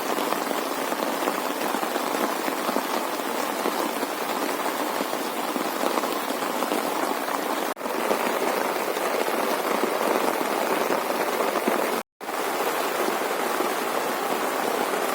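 Heavy rain falling steadily, a dense even hiss, cut out briefly about twelve seconds in.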